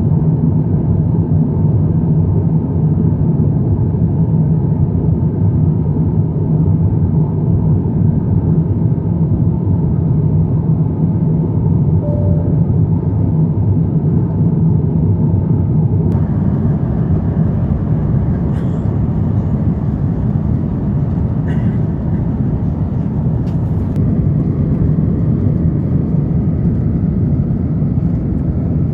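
Steady cabin noise of an Airbus A350-900 in flight: a loud, even low rumble of its Rolls-Royce Trent XWB engines and the airflow over the fuselage. About halfway through a thin hiss joins it, and a few faint clicks follow.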